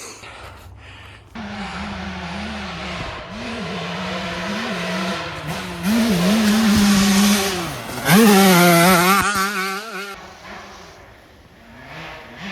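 Dirt bike engine revving up and down, its pitch rising sharply about eight seconds in, then cutting off suddenly about two seconds later.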